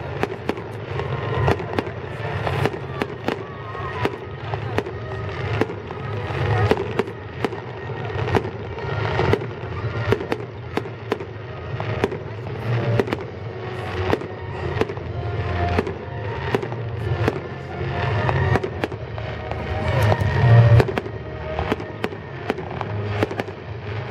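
Fireworks display: a continuous run of bangs and crackling bursts, several a second, with a louder cluster about twenty seconds in.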